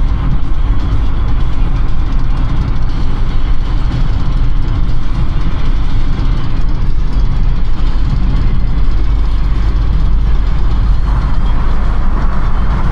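Car driving through city streets: a steady low rumble of engine and tyre noise.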